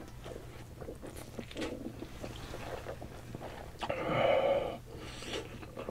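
Close-miked chewing and soft mouth sounds of someone eating spicy instant ramen with sausage, with light clicks of chopsticks against the pan. A short, louder mouth sound comes about four seconds in.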